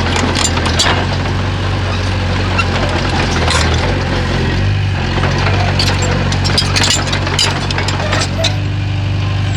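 Komatsu bulldozer's diesel engine running steadily, with many sharp clanks and knocks over it from the machine at work.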